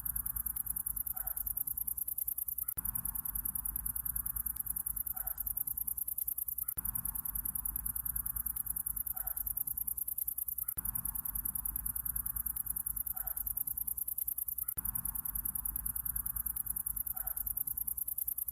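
Looped summer-night nature ambience: a steady, high, rapid insect trill over a low hum, with a short animal call coming round about every four seconds as the loop repeats.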